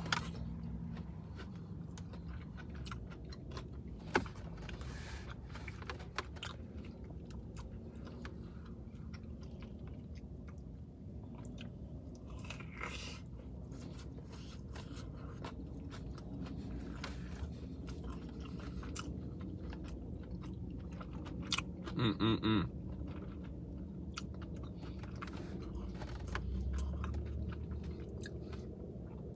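Close-miked chewing and lip-smacking of a person eating a crispy fried chicken sandwich, with soft crunches from the breading. A short pitched hum of voice comes about three-quarters of the way through.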